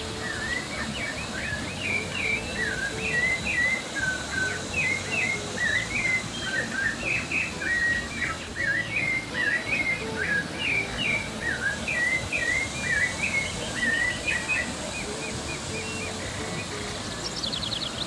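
Birds chirping in a fast, continuous string of short whistled notes, thinning out after about three-quarters of the way through, over the steady rush of a small rocky waterfall.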